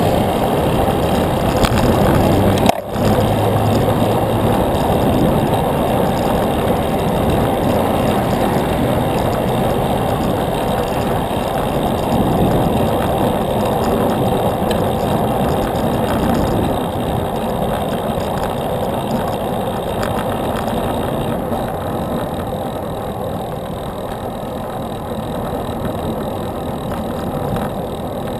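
Steady rushing noise of wind on the microphone and road traffic while riding a bicycle. It cuts out for an instant about three seconds in, and eases slightly near the end.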